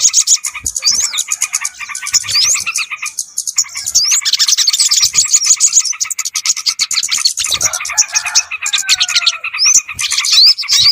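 Dense chorus of small birds in rapid, buzzy chattering, laced with many short rising whistles. It is a bird-lure (pikat) recording for calling in yellow-vented bulbuls (trucukan) and other small birds.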